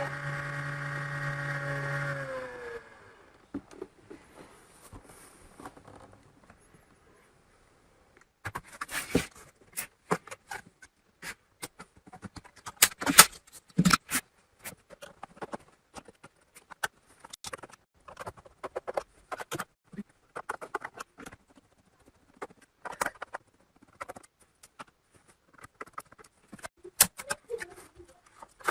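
A computer cooling fan hums steadily and winds down about two seconds in. After a few quiet seconds comes a long, irregular run of small clicks, taps and knocks, some of them sharp and loud, as the machine and its parts are handled.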